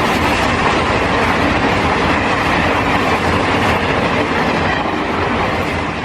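A train passing, a steady loud rumble of wheels on rails that eases off slightly near the end.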